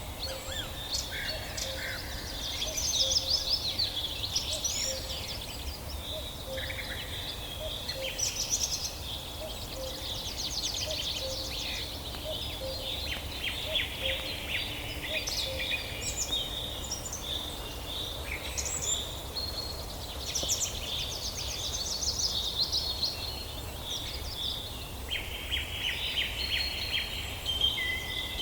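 Several songbirds singing at once in a forest dawn chorus, overlapping trills and chirps, with a faint low note repeating steadily behind them and a low rumble underneath.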